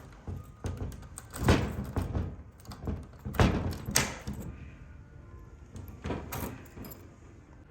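A door sliding open and shut, with several knocks and thuds; the loudest come about one and a half and three and a half seconds in, and a last pair near the end.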